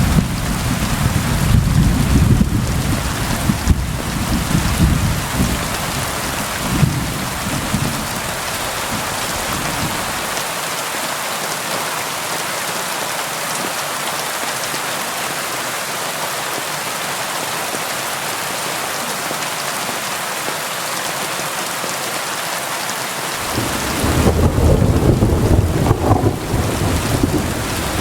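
Steady rain with a constant hiss of drops, and deep rolling thunder rumbling under it for the first ten seconds or so. The rumble dies away, leaving only the rain, then returns a few seconds before the end.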